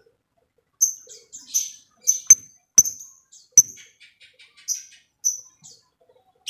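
Lovebird giving short, shrill high chirps, about ten of them at irregular intervals. Three sharp clicks fall among them, and a quick run of faint ticking calls comes in the middle.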